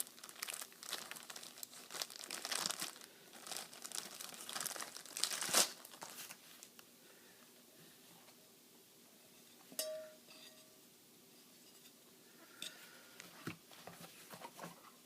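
Packaging from an SSD's retail box being handled: crinkling and rustling for the first several seconds, ending in a sharp click. Then a quieter stretch with a few isolated clicks and knocks.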